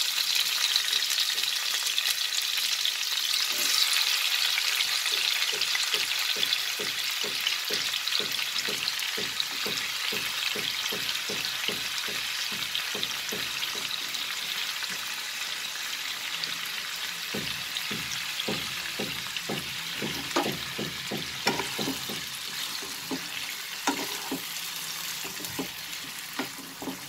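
Potato sticks frying in hot mustard oil in a nonstick pan: a steady sizzle from the potatoes' water meeting the hot oil, slowly dying down on the reduced flame. Over it come short crackles and knocks of a wooden spatula stirring the potatoes, getting busier in the second half.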